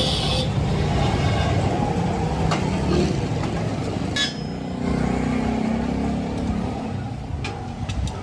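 A steady low motor rumble, with a few sharp knocks scattered through it.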